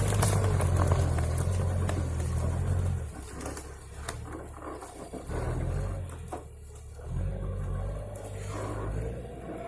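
Engine of a heavy land-clearing machine (stump grubber) running hard, easing off about three seconds in and picking up again near the end, with scattered short sharp cracks over it.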